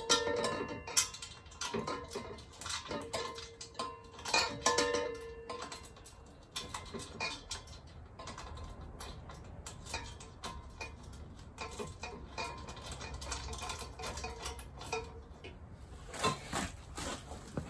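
Metal clinking, tapping and scraping as a motorcycle exhaust silencer and its mounting bracket are handled and bolts are tried in the mounting holes, which sit slightly out of line. The clinks come thick with short ringing tones for the first few seconds, thin out to scattered ticks, and pick up again near the end.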